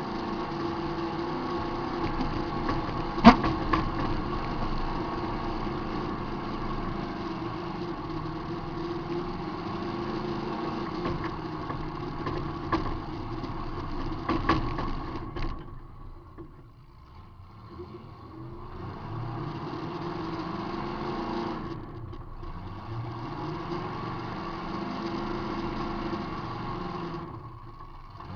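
Demolition derby car's engine running and revving, heard from inside the car, with one sharp crash of a collision about three seconds in and a few smaller knocks near the middle. The engine drops off briefly past halfway, then revs up again several times.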